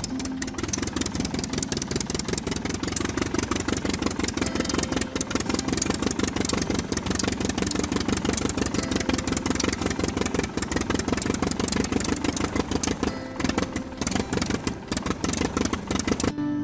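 Small engine of a DIY mini tractor running with a rapid, even firing rhythm, stopping abruptly near the end.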